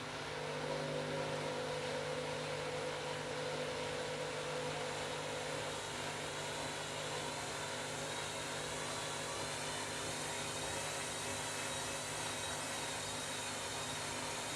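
Washing machine running with a steady whirring and motor hum; a higher tone rises in just after the start and fades away over the next several seconds.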